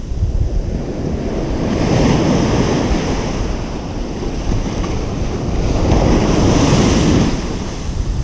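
Ocean surf breaking on a beach: a steady wash with two waves surging louder, one about two seconds in and a bigger one around six to seven seconds, with wind rumbling on the microphone underneath.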